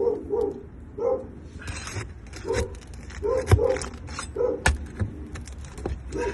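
A dog barking over and over in short bursts, with a couple of sharp knocks about three and a half and four and a half seconds in.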